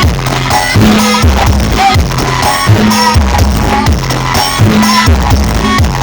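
Loud DJ-style bantengan dance music from a mobile parade sound system, with a heavy repeating bass beat and percussion.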